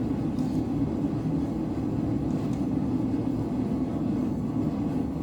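Blacksmith's forge running, a loud, steady, even rushing drone.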